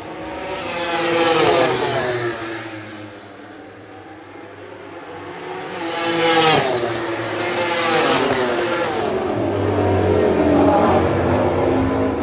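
Racing motorcycles passing at speed, their engine note dropping in pitch as each goes by, twice in the first seven seconds. From about eight seconds in, more engine sound follows.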